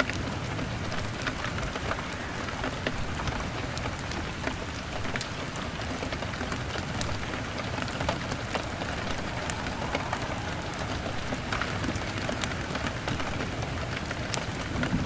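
Steady rain on a window, with scattered sharp crackles from a burning log fire.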